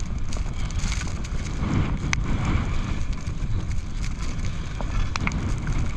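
Wind rushing over the microphone of a skier's camera during a fast downhill run, a steady low rumble with a few faint sharp ticks.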